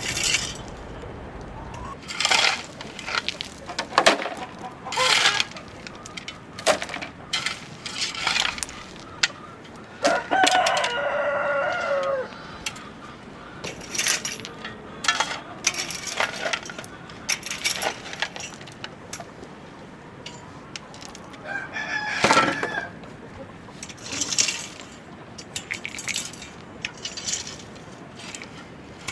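Chickens clucking, with a rooster crowing once about ten seconds in, among scattered short clicks and knocks.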